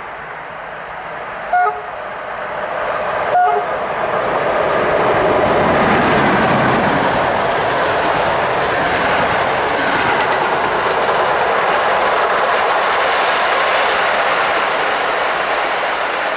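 CFR EA1-class electric locomotive sounds two short horn blasts, then it and its coaches pass close by with a steady rush of running noise and wheels clattering over rail joints.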